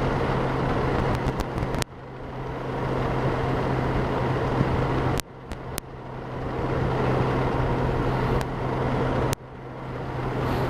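Wind rushing over a helmet-mounted camera microphone on a Honda Gold Wing at highway speed, with the motorcycle's steady engine hum and road noise beneath. The noise cuts out sharply three times and swells back over a second or two each time.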